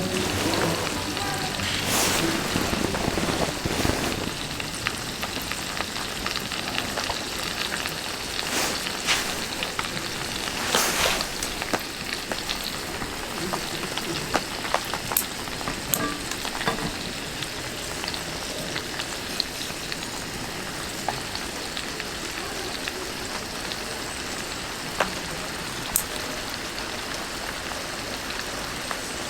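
Steady rain falling, with scattered single drops ticking sharply now and then.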